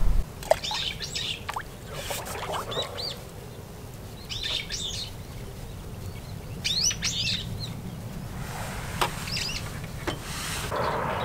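Small birds chirping, in short quick high phrases that come about every couple of seconds, with a few faint clicks in between.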